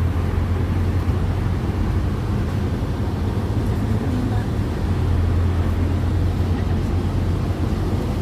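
Scania Citywide natural-gas bus running with a steady low engine drone.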